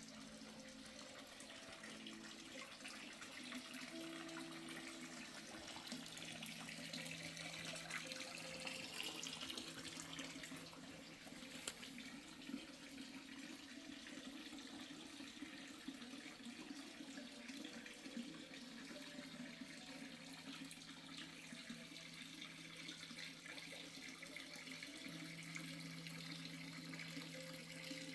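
Steady, fairly faint rush of running water, with a faint low hum underneath.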